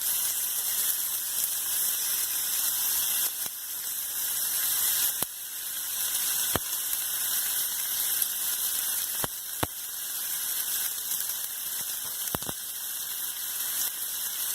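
Rump steak searing in a very hot pan: a steady hiss of sizzling, broken by a few sharp pops and spits, two of them close together near the middle.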